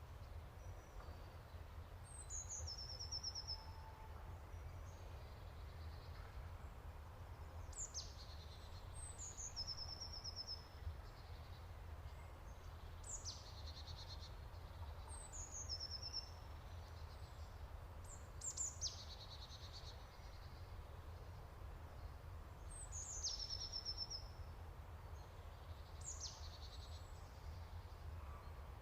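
A small songbird singing faint, high phrases every few seconds, each a quick falling note followed by a short buzzy trill, over a steady low hum.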